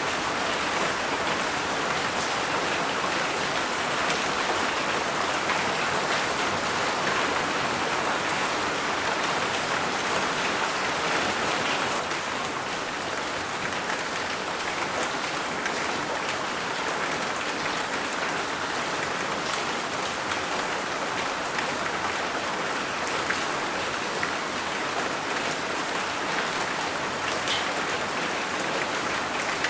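Steady rain falling, an even hiss with faint scattered drop ticks, easing slightly about twelve seconds in.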